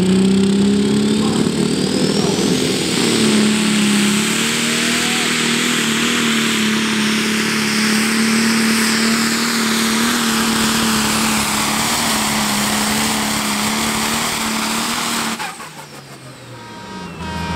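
Single-turbo diesel engine of a Pro Stock pulling tractor running flat out under load during a pull, a steady hard engine note with a high whine rising over the first few seconds. The engine sound drops away abruptly about fifteen seconds in as the run ends.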